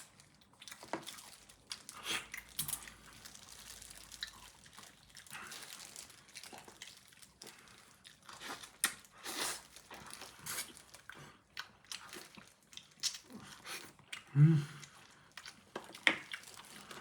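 A person eating pork-bone hangover soup close to the microphone: chewing and smacking with scattered sharp clicks and crunches, and a short voiced sound about fourteen seconds in.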